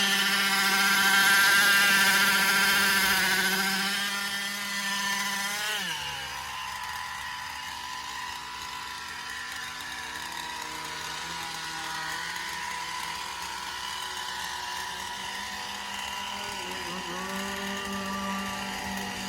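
Twin Zenoah two-stroke engines on a Goped Sport held at high revs, then dropping sharply to a lower, steady speed about six seconds in. Near the end they dip and pick up again briefly.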